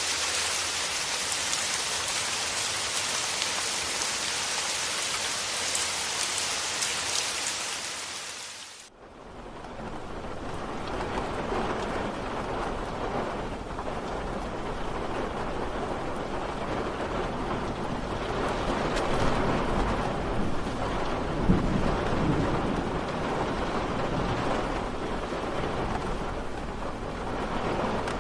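Steady rain with a bright, high hiss that fades out about nine seconds in, giving way to a lower, fuller rain sound with rolling rumbles of thunder swelling past the middle.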